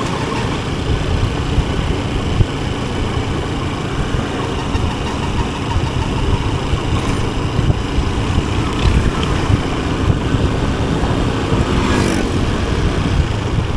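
Motorcycle engine running steadily amid road traffic noise.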